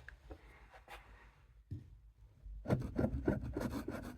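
Vintage Camillus knife blade worked back and forth on a handheld axe-sharpening puck, grinding down its rounded tip. The first part is nearly quiet with a few light taps, then quick, even rasping strokes start about two and a half seconds in.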